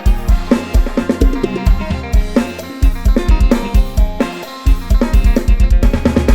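Lam sing instrumental music: a sampled drum kit (Addictive Drums 2, Tama kit) keeps a fast beat of kick, snare and cymbals over bass and a melody line, with a busier run of kicks near the end.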